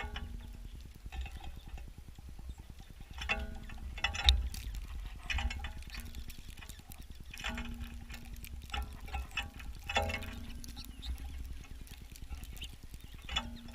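Birds landing and pecking on a bird feeder, heard through a camera attached to it: irregular knocks and taps about once a second, some followed by a short ringing hum, the loudest about four seconds in, over a steady low rumble.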